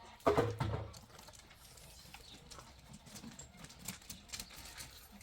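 Farm animals: a short, loud call about half a second in, followed by scattered light clicks and knocks.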